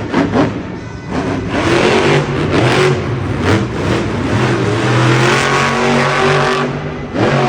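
Monster truck's supercharged V8 engine revving: several quick rises in pitch, then held at a high, steady pitch for a few seconds before dropping away near the end. Music plays underneath.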